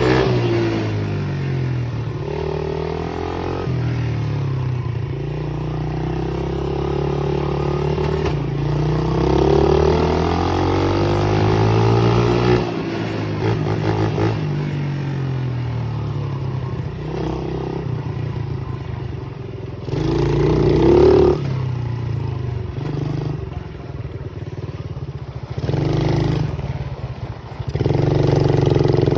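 Small pit bike engine being ridden, its pitch rising and falling again and again as the throttle is opened and eased off, with a few louder surges of revving.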